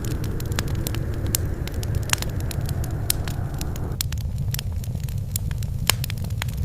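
Wood fire crackling, with frequent sharp pops and snaps over a steady low rumble. A softer rushing layer in the middle range cuts off abruptly about four seconds in.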